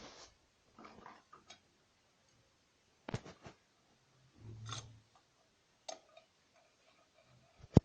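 Irregular clicks and knocks of hand tools and metal parts being handled during motorcycle assembly, a few light taps spaced out, with one sharp loud click near the end.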